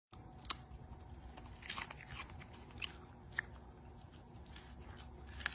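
Chewing: faint, irregular crunches and clicks over a low room hum.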